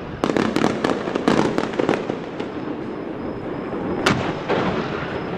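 Fireworks going off: a dense run of crackling pops through the first two seconds, then sparser pops, and one sharp bang about four seconds in.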